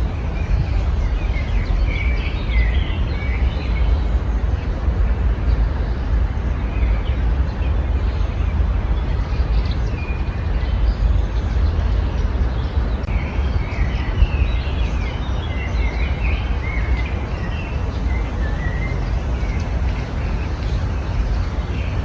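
Small songbirds chirping and twittering in a garden, in two spells: near the start and again in the middle of the clip. Under them runs a steady low rumble that is louder than the birds.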